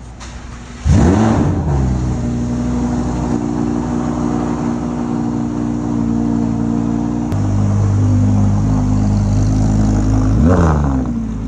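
Lamborghini Huracán V10 engine revving up sharply and falling back about a second in, then running steadily at low revs as the car creeps out. A second short rev blip comes near the end.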